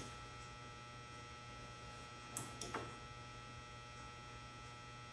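Faint steady electrical hum, with two faint clicks about two and a half seconds in.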